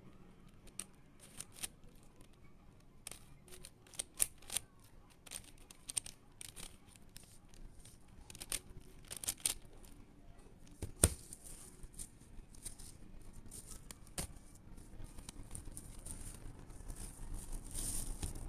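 Plastic Rubik's-type puzzle cube being turned by hand: irregular quick clicks and clacks as the layers are twisted, with one louder knock about eleven seconds in.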